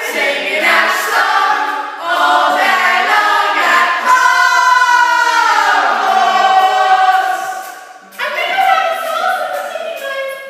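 Voices singing together without accompaniment, with one long held note that sweeps in pitch a few seconds in and a brief break near the end.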